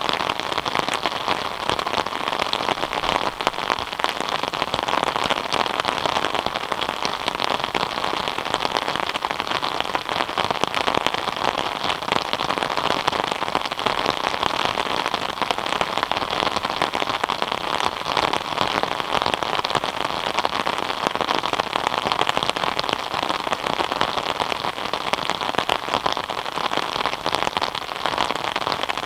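Steady rain falling: a dense, unbroken patter of many small drops at an even strength.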